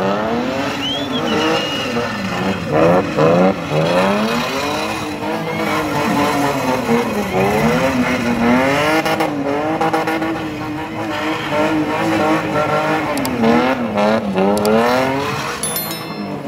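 BMW E30 engine revving hard in a spinning drift, its pitch swinging up and down every second or two as the throttle is worked, with tyres squealing and scrubbing on the tarmac.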